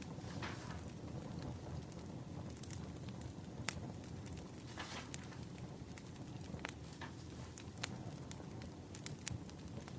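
Wood fire crackling: irregular sharp snaps and pops, one or two a second, over a steady low rumble.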